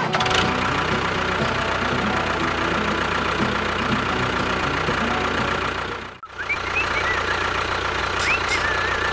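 Steady engine-like running of the mini tractor's drive, cutting out briefly about six seconds in and then resuming, with faint high squeaks over it near the end.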